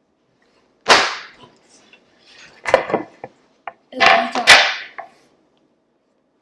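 Kitchen utensils and cookware being handled: a handful of sharp knocks and clatters about a second apart, the loudest a quick double clank near the middle.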